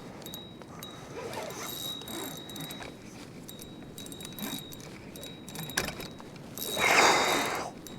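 Fishing reel and tackle clicking and rattling while a big channel catfish is fought from a kayak, with a brief louder rush of noise near the end.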